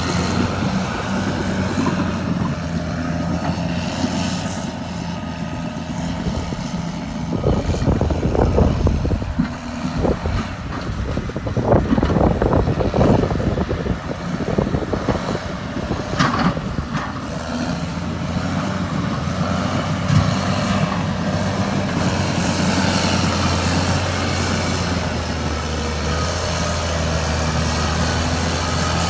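Caterpillar D6R2 bulldozer's diesel engine running steadily. About a third of the way in, a louder, rougher stretch of noise sets in and lasts some ten seconds, then the steady engine note carries on alone.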